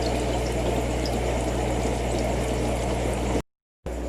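Aquarium water and pump running: a steady rush of moving water over a constant low motor hum. It drops out for about half a second near the end.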